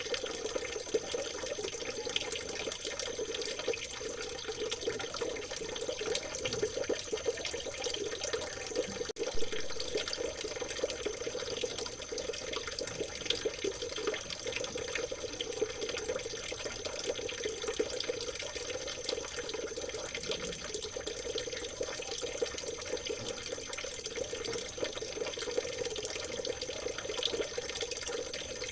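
Water babbling and trickling in a small river, a steady stream of many small splashes. One brief knock stands out about a third of the way through.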